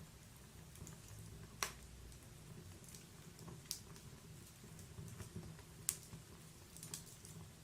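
Wood fire burning in a log fireplace: a soft low rumble of flames with sparse crackles and about four sharp pops, the loudest a little before six seconds in.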